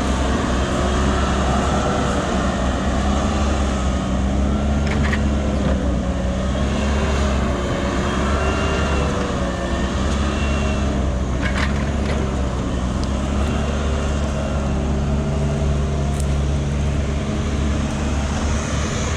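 Large diesel engine of heavy machinery running steadily under load, its pitch wavering slightly, with a couple of brief knocks.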